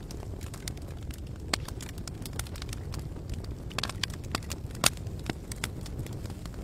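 Campfire crackling: irregular sharp pops and snaps over a steady low rumble. A cluster of pops comes about four seconds in and the loudest single snap just after.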